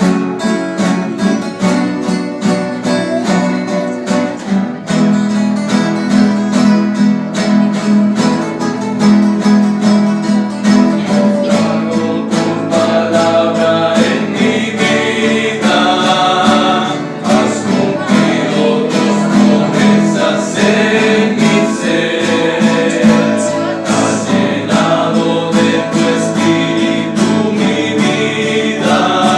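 Men's rondalla performing a hymn: several acoustic guitars strummed quickly and evenly, with men's voices singing over them from about halfway through.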